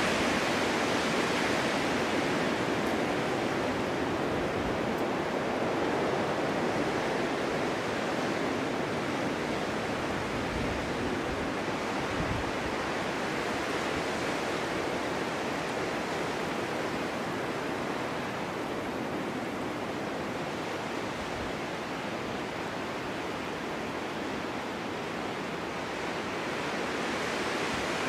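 Snowstorm wind blowing steadily, a dense rushing noise that eases a little in the second half and swells again near the end, with occasional low gusts.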